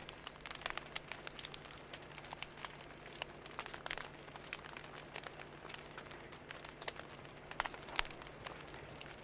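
Fire crackling: irregular sharp pops and snaps over a soft hiss, with a louder pop about eight seconds in.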